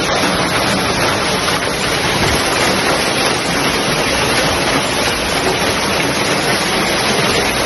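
Steady rushing of water, an even loud noise without distinct splashes or knocks.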